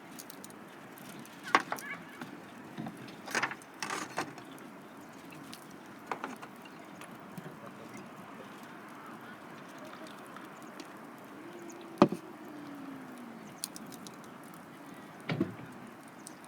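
A few sharp, scattered knocks and clicks over a steady low background, the loudest about two thirds of the way through.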